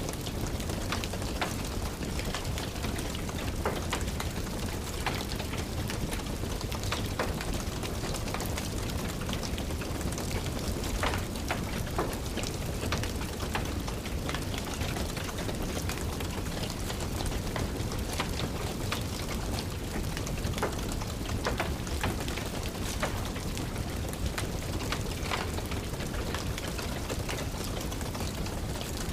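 Steady rain with a low rumble, mixed with frequent sharp crackles and pops from a wood fire in a fireplace.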